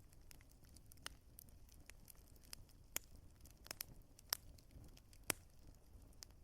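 Wood fire crackling: scattered sharp pops and snaps, a few louder ones, over a soft low rumble of the flames.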